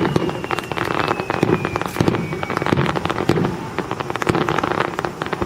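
Fireworks display: aerial shells bursting with dense rapid crackling and low booms. A faint high whistle slowly falls in pitch during the first second or so.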